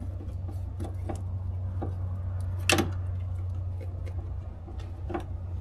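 Hand tool tightening an old hose clamp on a fuel filler neck hose: scattered irregular clicks and taps, with a sharper knock about three seconds in and another near the end, over a steady low hum.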